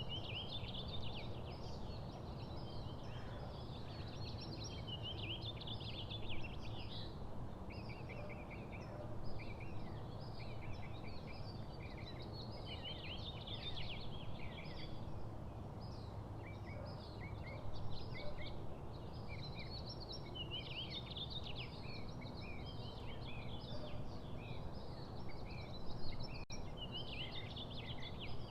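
Several small birds chirping and twittering in quick, overlapping notes throughout, over a steady low background rumble.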